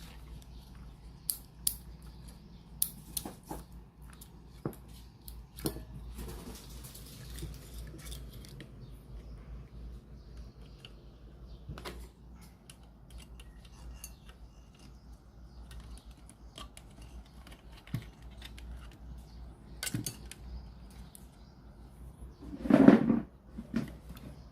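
Scattered small metallic clicks and taps over a low steady hum, with a louder clunk near the end.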